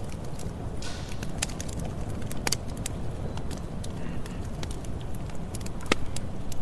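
Campfire burning: a steady low rumble of flames with irregular sharp crackles and pops from the burning wood, one louder pop about six seconds in.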